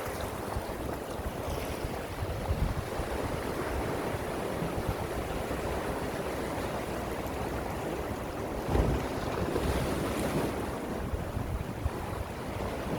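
Gentle sea waves washing on the shore in a steady, even wash of surf, with one wave surging louder near the end.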